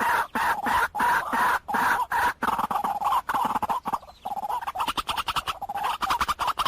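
White-breasted waterhen calling: repeated notes, about three a second, then from about four seconds in a faster, stuttering run of quicker notes.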